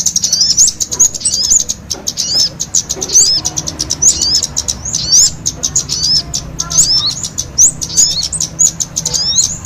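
Kemade and sogon songbirds singing in full song together: a fast, unbroken stream of high chirps and short rising whistles, over a faint low steady hum.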